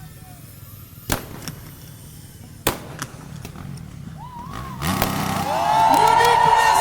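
Two sharp firecracker bangs about a second and a half apart, over a low rumble. About five seconds in, a much louder stretch comes in, made of many overlapping tones that rise and fall.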